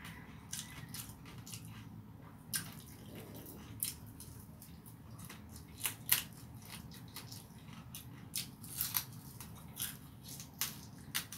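Person eating by hand close to the microphone: irregular wet mouth clicks and smacks of chewing, over a low steady hum.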